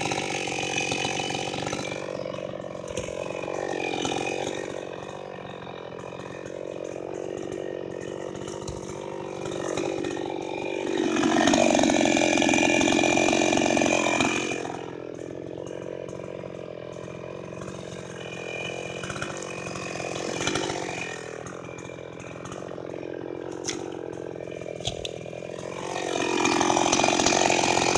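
Two-stroke chainsaw engine running unevenly at low revs, with a rev-up for about three seconds roughly eleven seconds in, then back down, and revving up again near the end.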